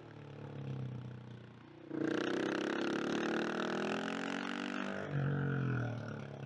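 KTM 690 SMC R's single-cylinder engine under way: after a quieter stretch the throttle opens sharply about two seconds in and the engine pulls hard for about three seconds, then drops to a lower note and eases off near the end.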